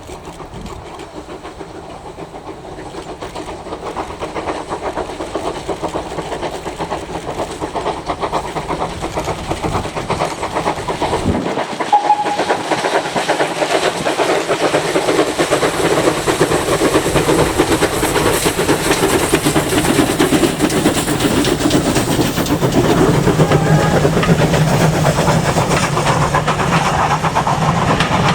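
Steam locomotive running and drawing nearer, growing steadily louder, with steam hiss.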